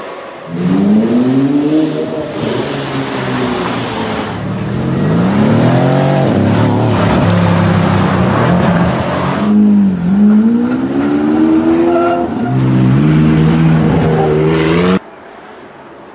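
Performance car engine accelerating hard, its pitch climbing and falling several times as it revs through the gears. The sound drops abruptly to a much quieter engine near the end.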